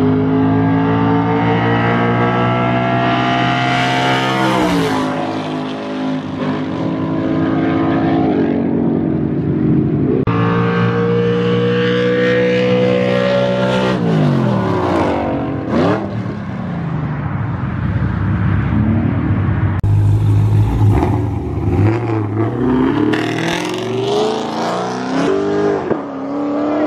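Car engines at full throttle in a street drag race: the pitch climbs through the revs, drops at each gear change and climbs again, then a car passes by at speed with a falling pitch about halfway through. Later the engine note varies with rises and falls of revving.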